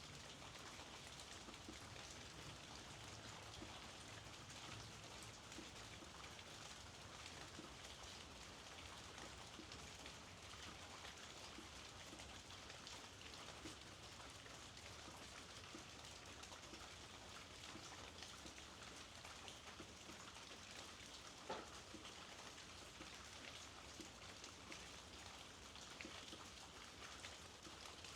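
Faint, steady rainfall, many small drops tapping, with one sharper drop tap about three-quarters of the way through.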